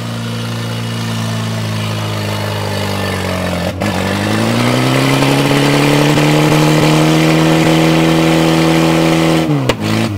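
Pickup truck engine revving hard while the flat rear tire spins and burns. About four seconds in the revs break off briefly, then climb and hold higher until they fall away near the end.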